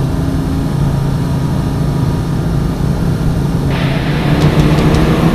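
Kawasaki ZRX1100 inline-four engine running at road speed under steady wind rush, heard from the rider's own bike. About three and a half seconds in, a louder hiss comes in over it with a run of quick ticks.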